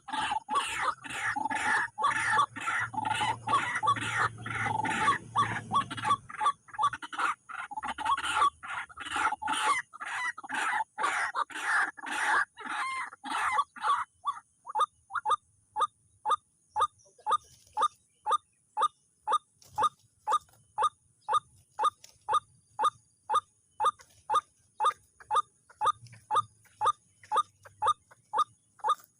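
White-breasted waterhen (wak-wak) calls: dense, overlapping croaking calls for about the first half, then a single short note repeated evenly about twice a second.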